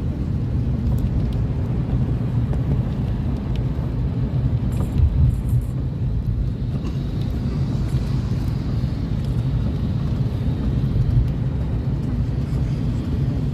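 Steady low rumble of a car heard from inside the cabin, with a few faint scattered clicks over it.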